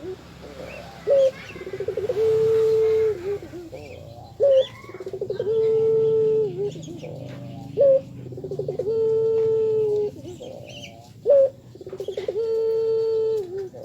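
Puter dove cooing the same call four times, about every three and a half seconds. Each call is a short sharp note, then a quick rolling trill and a long held coo. Other small birds chirp faintly behind.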